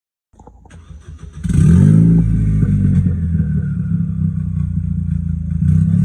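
Ford Fiesta ST200's engine, breathing through an aftermarket exhaust, cranking over and catching about a second and a half in with a brief rev flare, then settling into a loud, steady idle. The revs swell slightly again near the end.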